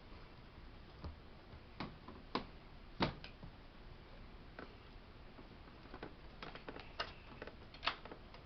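Irregular light clicks and clinks of bolts, nuts and the recliner's metal frame as the hardware is lined up and fitted by hand: about a dozen sharp taps, the loudest about three seconds in and another near the end.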